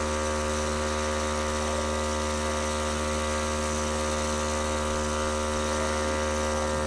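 Steady machine hum made of several constant tones, with no rhythm and no change in level.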